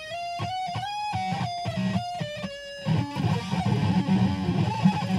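Electric guitar in drop C# tuning playing a lead solo: held single notes stepping from one pitch to the next with slides, then a quicker run of lower notes from about three seconds in.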